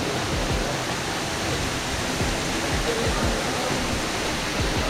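Tall waterfall rushing steadily, a dense roar of falling water with irregular low thumps underneath.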